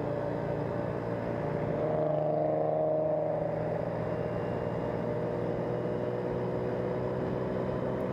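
Steady drone of a vehicle's engine with road noise while driving, swelling slightly about two seconds in.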